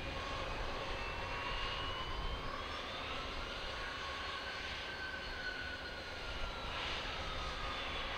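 Jet aircraft engines running with a steady low rumble and a high whine. The whine slowly rises in pitch over the first half and eases back down toward the end.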